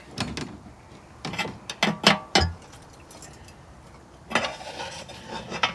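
Metal clinks and knocks as a stuck steel oil pan is worked down and free of the engine, with a heavier thump about two and a half seconds in and a short scrape about four seconds in.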